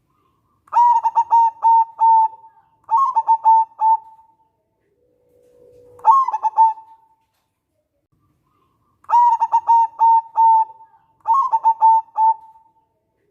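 Zebra dove (perkutut) singing its cooing song: phrases of rapid, clipped coo notes, twice a pair of phrases followed by a short low hum that runs into a third phrase, with silent gaps between.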